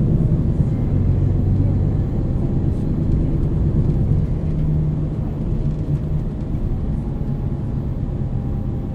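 A MAN NL 323 city bus's diesel engine and ZF EcoLife automatic transmission running under way, heard from inside the bus. A steady low drone carries a faint whine, which steps up in pitch about six to seven seconds in.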